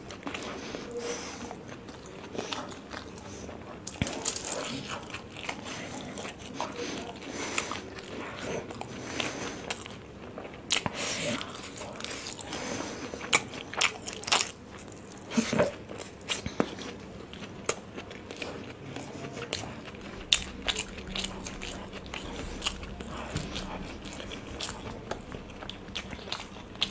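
Close-miked chewing and biting of soft steamed vegetable momos dipped in chutney, with sharp mouth clicks scattered all through.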